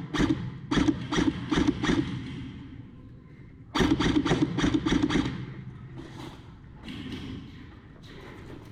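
Two quick runs of sharp thuds, about four or five a second: one at the start lasting about two seconds, and another beginning near four seconds in, then fainter knocks.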